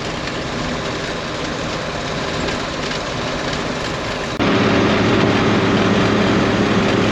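1977 International Loadstar grain truck running down the road: a steady rumble that switches abruptly, about four seconds in, to a louder, even engine drone.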